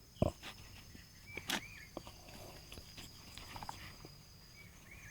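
Forest ambience: insects droning steadily at a high pitch while a bird gives a short rising-and-falling call twice. A soft knock comes just after the start and a sharp click about a second and a half in.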